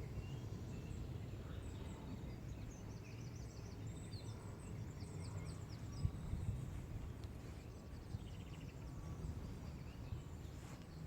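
Small birds singing, quick high chirping trills about three to six seconds in, over a steady low outdoor rumble.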